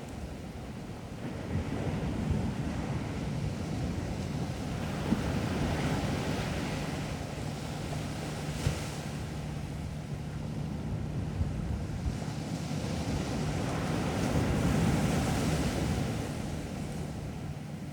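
Sea waves washing onto a beach, the surf swelling and easing twice, with wind buffeting the microphone. A steady low hum runs through the middle.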